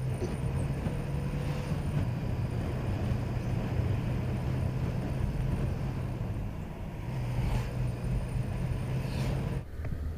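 Hero Honda Glamour 125cc single-cylinder four-stroke motorcycle engine running at a steady cruising speed, with wind and road noise. The sound changes abruptly near the end.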